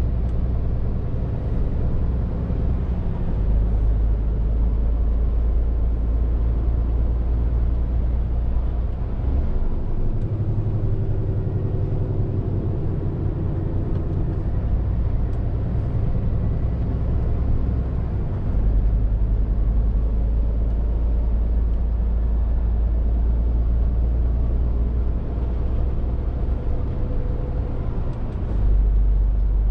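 Scania R450 lorry's straight-six diesel running on the road, with tyre and road noise: a steady low drone whose deepest rumble swells and drops back a few times as the load changes.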